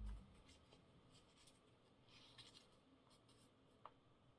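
Near silence, with faint rustling and light ticks of paper scraps being handled and laid on a table. A soft low thump comes right at the start.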